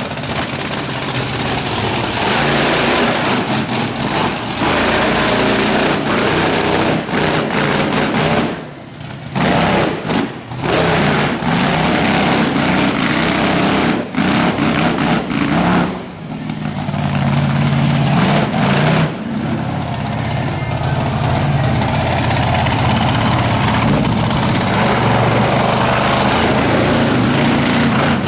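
Monster truck engine running hard at high revs. It drops off sharply a couple of times, about a third of the way in and again around halfway, as the throttle is lifted, then pulls steadily again.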